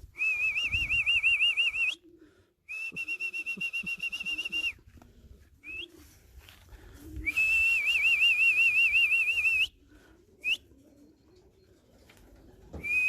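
Whistling to call racing pigeons down into the loft as they arrive home: three long, high whistles, the first and last wavering quickly in pitch and the middle one held steadier, with short rising chirps between them.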